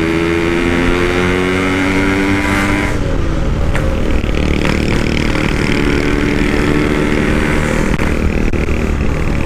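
Yamaha RX-King 135 cc single-cylinder two-stroke, with a loud aftermarket Packing Power exhaust, accelerating under load with its pitch climbing. It changes gear about three seconds in, then climbs again.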